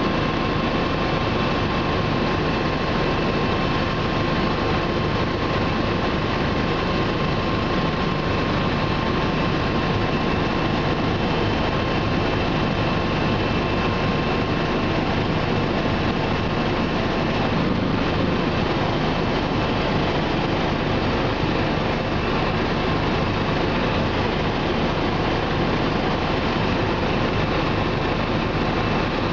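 Bell 429 twin-turbine helicopter in flight, heard from inside the cabin: a constant rush of engine and rotor noise with a steady high whine.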